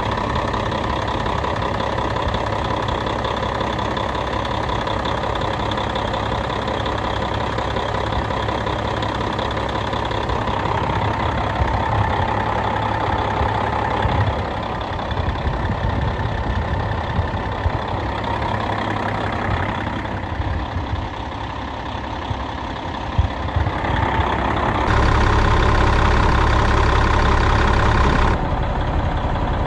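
Heavy diesel truck engine, a Caterpillar in a Western Star 4964F, idling steadily, briefly louder for a few seconds near the end.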